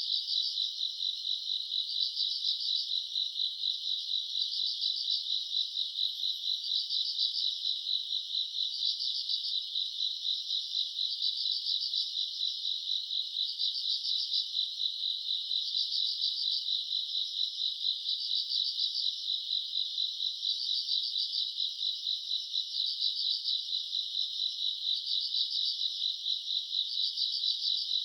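A dense, steady chorus of grass insects such as crickets chirping, with a louder pulsing phrase that recurs about every two seconds over a continuous high trill.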